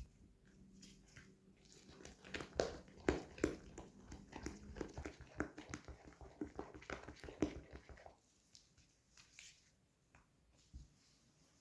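Irregular clicking and knocking of hands and utensils at work preparing cookie dough, busiest from about two to eight seconds in, then fading to a few faint ticks.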